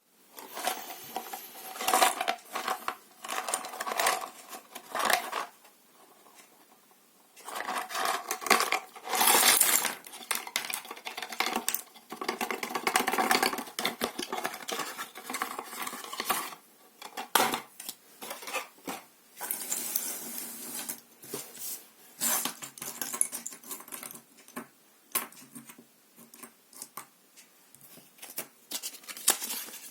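Plastic LEGO pieces clattering and rattling as they are rummaged through and handled, in runs of dense rattling with scattered single clicks in between and toward the end.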